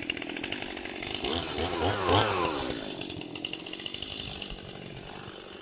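Chainsaw running, revving up and back down about two seconds in, then running on more quietly.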